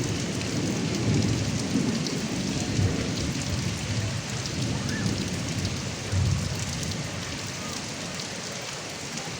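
Steady rain running off a roof gutter spout, with low thunder rumbling and slowly dying away.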